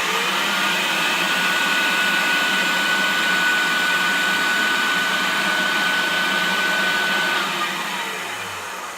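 Hoover Turbopower Junior U1100 upright vacuum cleaner switched on: its 400-watt motor spins up and runs at full speed with a steady high whine, then is switched off about seven seconds in and winds down. The owner puts its condition down to a dry motor bearing that needs lubricating.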